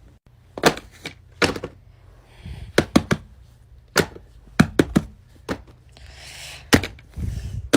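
Small objects being handled and knocked against a hard surface: about a dozen sharp knocks and clicks at uneven intervals, with a brief rustle shortly before the end.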